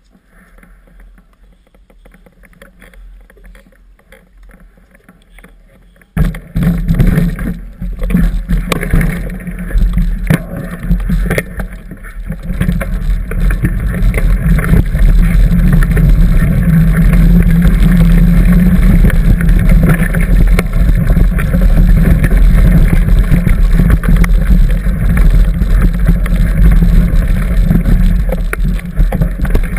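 Mountain bike ride heard through a camera on the bike: after a quiet stretch, loud wind buffeting on the microphone and rattling of the bike over the trail begin abruptly about six seconds in and continue as a steady rumble with scattered knocks.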